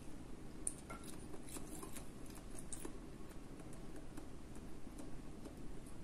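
Close-up mouth sounds of a person chewing soft pasta: small wet clicks and smacks scattered over a faint steady low hum.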